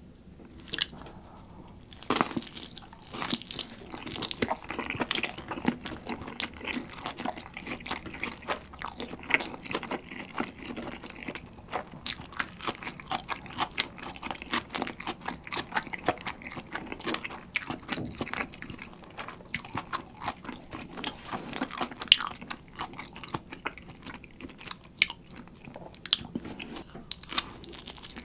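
Close-miked eating sounds: biting and chewing a slice of spicy bulgalbi pizza, a steady run of small crisp crackles from the crust.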